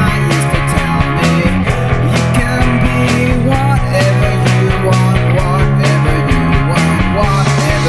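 A home-recorded rock song playing, with electric guitar and bass guitar over a steady beat.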